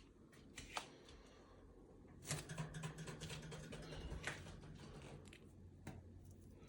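A few light, sharp taps and clicks, spaced a second or two apart, with a faint low hum in the middle.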